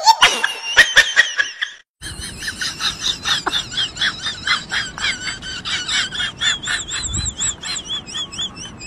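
Laughter with a few knocks, cut off after about two seconds. Then a bird chirps over and over, short wavering high chirps at about three a second.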